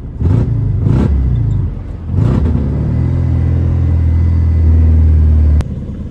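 Widebody BMW E36's engine and loud exhaust under way, surging three times in the first couple of seconds, then pulling steadily and loudly before dropping off abruptly with a click near the end.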